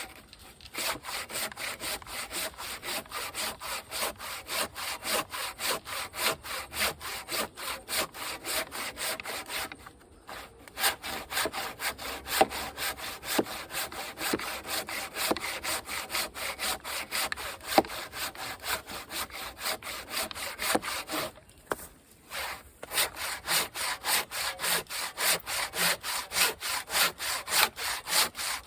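Husky 20-inch fine tooth hand saw cutting through a dried tree trunk, in a steady back-and-forth rhythm of about three strokes a second, stopping briefly twice.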